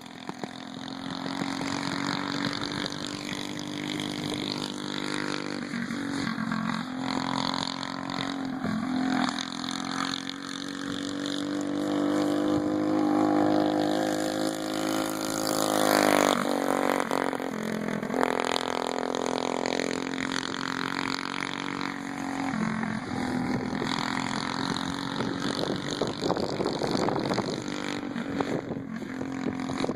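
Small single-cylinder mini bike engines racing, revving up and down. The pitch climbs for several seconds to a peak about halfway through, drops suddenly, then falls away again.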